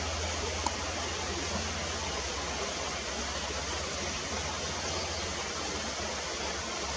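Steady outdoor background hiss, even throughout, with one faint click about two-thirds of a second in.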